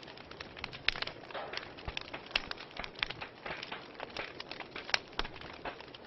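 Wood fire burning in a fireplace, crackling with many small irregular pops over a soft steady hiss; a couple of sharper pops stand out, a little before one second and near five seconds in.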